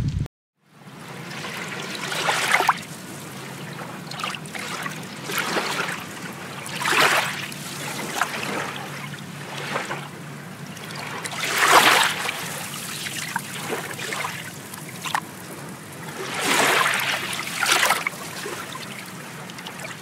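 Water trickling and splashing, swelling up irregularly every few seconds.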